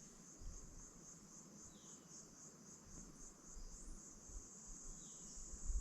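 Faint tropical rainforest chorus of calling insects and frogs: a steady high trill pulsing about twice a second, with a few short chirping notes now and then.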